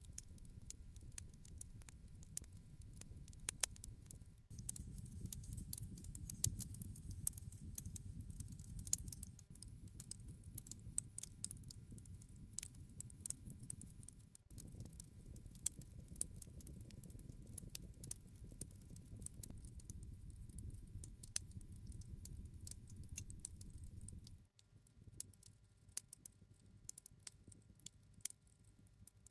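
Wood campfire crackling: irregular small sharp snaps over a low rumble of the flames. The low rumble changes level abruptly a few times.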